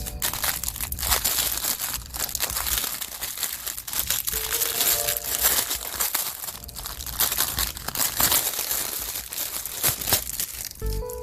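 Packaging crinkling and rustling as it is handled and opened, in dense irregular crackles.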